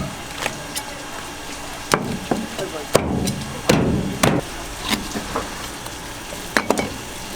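A knife chopping through fish on a wooden cutting board: a series of sharp, irregular knocks, about eight strikes spaced from a fraction of a second to over a second apart.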